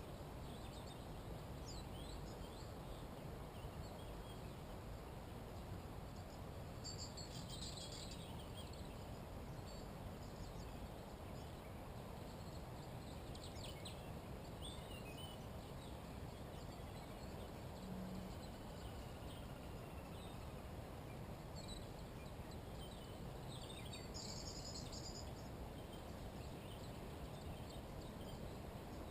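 Wild songbirds calling now and then: short high chirps, with two louder bursts of about a second each, one about a quarter of the way in and one near the end. Under them runs a steady low background rumble and hiss.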